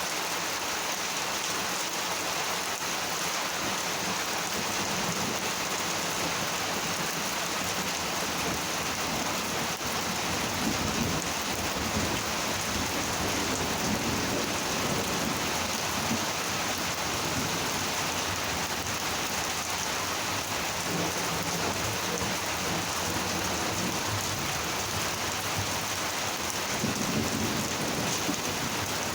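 Steady monsoon rain falling hard, with low rolls of thunder swelling about a third of the way in and again near the end.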